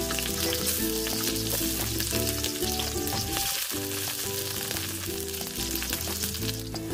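Chopped garlic sizzling steadily in hot oil in a wok, stirred now and then with a wooden spatula, over background music.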